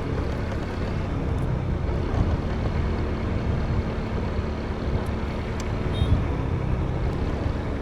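Motorbike running steadily along the road, a low engine drone under continuous road and wind rumble.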